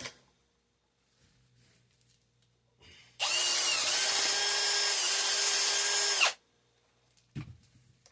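Electric drill running steadily for about three seconds as it drills out a slightly larger hole in an aluminum bus bar. A single knock follows near the end.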